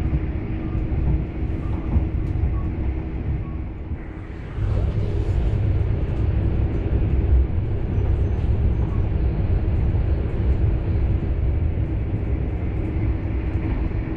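SBB EuroCity passenger coach running at speed, heard from inside the carriage: a steady low rumble of wheels on rails with a faint steady hum. It drops off briefly about four seconds in, then comes back louder.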